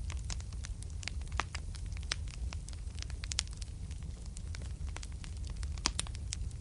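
Wood fire crackling in a fireplace: frequent sharp pops and snaps over a steady low rumble of the flames, with a few louder pops spread through.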